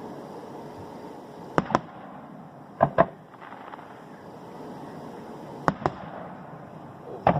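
Firework shells bursting: sharp bangs that come in quick pairs, four times, over a steady background hiss.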